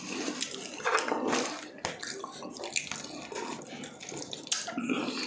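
Close-up eating sounds of fried chicken being chewed: irregular wet, smacking chewing noises, with louder bursts about a second in and near the end.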